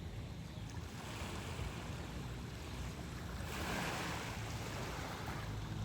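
Sea waves washing on a beach, with one louder wave breaking about halfway through, over a steady low rumble of wind on the microphone.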